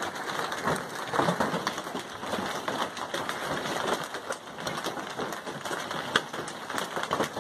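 Hailstorm: hailstones and heavy rain pelting hard surfaces, a dense, irregular clatter of impacts over a steady rush.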